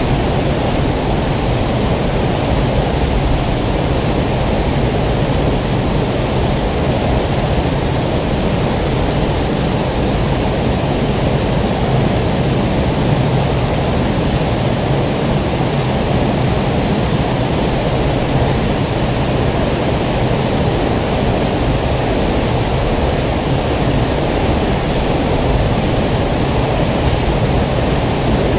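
Steady, deep rush of flowing water, even and unbroken, with no wave swells or separate drips.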